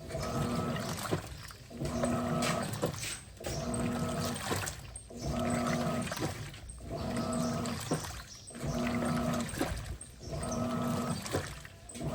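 Electrolux Turbo Capacidade Premium 15 kg top-loading washing machine agitating with its LPR16-style agitator. The motor hums through each stroke and dips briefly as the agitator reverses, about every 1.7 seconds, with water sloshing.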